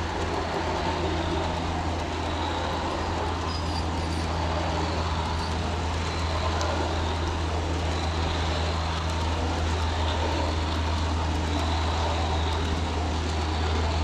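USA Trains G-scale model of the Union Pacific 844 steam locomotive running, a steady low hum and rumble with no break.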